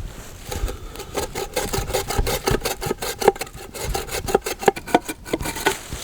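Hand saw cutting through a log in quick back-and-forth strokes, about four to five a second, stopping just before the end.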